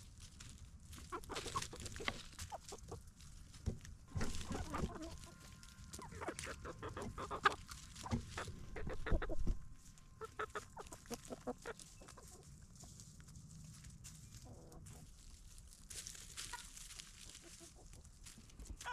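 Chickens clucking off and on, busiest in the first half and sparser toward the end.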